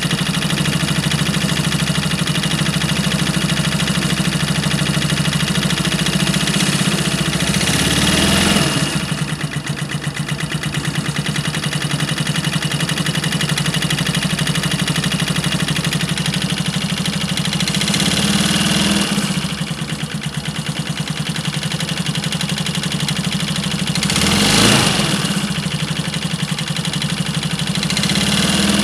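Suzuki 水噹噹 125 scooter engine idling steadily, blipped up in revs briefly three times, about a third, two thirds and five sixths of the way through. It is run to show an abnormal engine noise.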